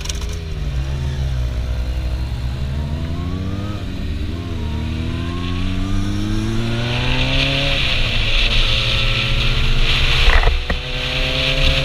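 Kawasaki Zephyr 750's air-cooled inline-four engine pulling away from a stop and accelerating up through the gears. The pitch climbs in each gear and drops at the shifts, about four, eight and ten and a half seconds in. Wind noise on the microphone builds as speed rises from about seven seconds.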